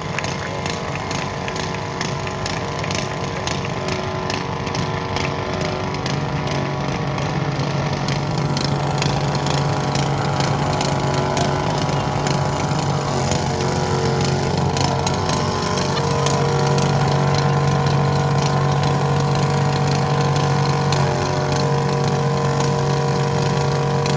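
Tractor engine running at a steady pitch, growing gradually louder through the middle and then holding.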